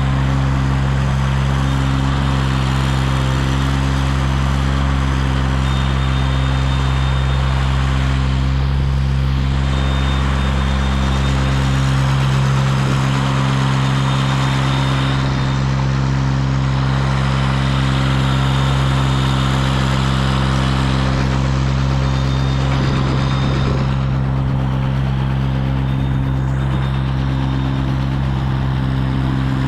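Engine of a CMC 90-foot aerial lift running steadily, with the machine set to its fast 'double rabbit' travel speed.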